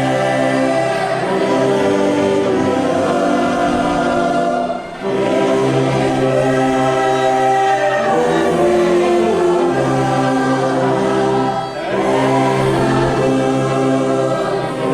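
A congregation and church orchestra performing a hymn: many voices singing slow, held chords with instrumental accompaniment, with short breaks between phrases about five and twelve seconds in.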